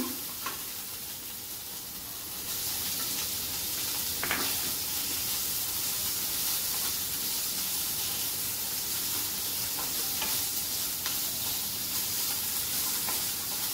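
Crumbled paneer and green chillies sizzling in ghee in a nonstick kadhai, stirred with a wooden spatula that gives occasional soft scrapes. The sizzle gets louder a couple of seconds in, as the paneer goes into the hot pan.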